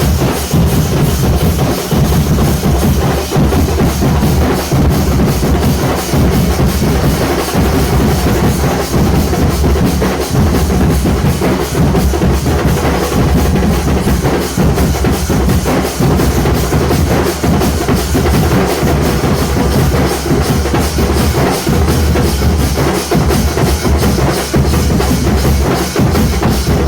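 Nasik dhol ensemble playing loud: big dhol drums beaten in a fast, continuous rhythm, with rapid snare-like rolls over the deep drum strokes.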